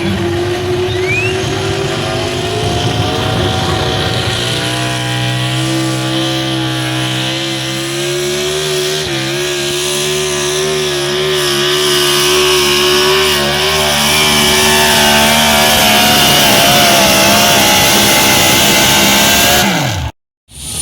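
Pulling vehicle's engine running hard under load as it drags the weight sled down the track. Its pitch climbs at first, then wavers, and it grows a little louder about two thirds of the way in.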